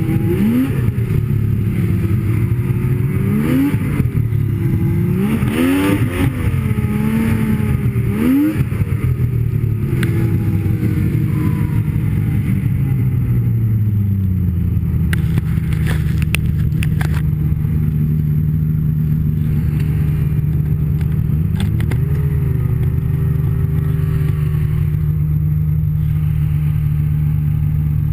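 Snowmobile engine under way, the throttle rising and falling for the first half, then holding a steady pitch at cruising speed. A few sharp clicks sound about halfway through.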